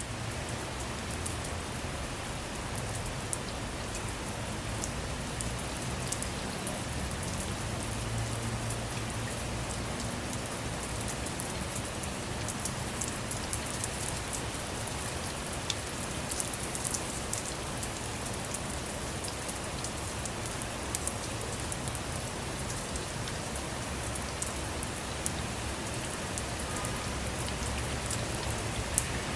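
Steady rain falling on a car, with many separate drops ticking sharply on the bodywork and glass over the even hiss of the downpour.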